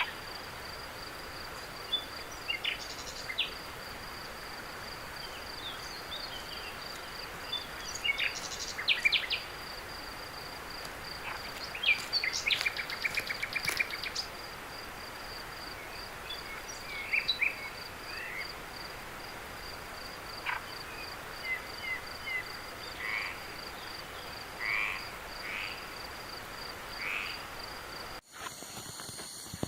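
Night chorus: a steady, rapidly pulsing high insect trill, like crickets, with short chirping and croaking animal calls scattered over it. About 28 seconds in, the sound changes abruptly to a different bed of steady, higher insect tones.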